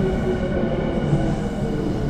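Tokyu electric commuter train running at the platform: a steady low rumble with a motor whine whose tones drift slightly down in pitch.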